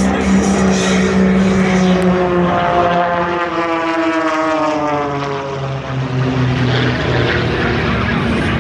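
Small propeller plane's engine running during an aerobatic routine. Its note climbs and then drops in pitch midway through, as in a pass-by.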